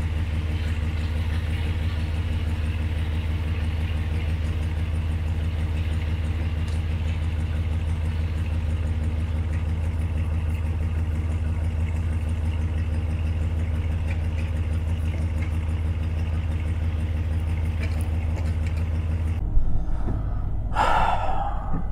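1970 Buick Estate Wagon's 455 V8 idling steadily, heard at the tailpipe of its single exhaust, whose broken hanger has just been tied up with wire. The idle cuts off abruptly near the end, replaced by quieter sound inside the car.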